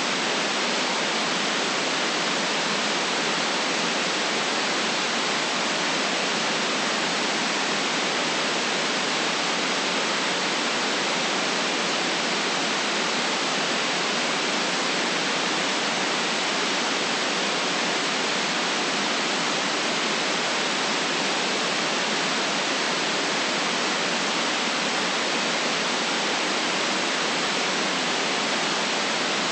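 Steady white noise: an even, unchanging hiss with no low rumble, strongest in the higher range.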